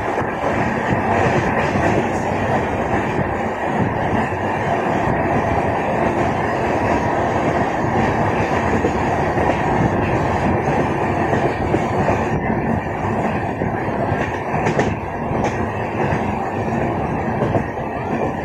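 Train running steadily along the track, the continuous noise of wheels on rails heard from inside a carriage, with a few faint clicks in the second half.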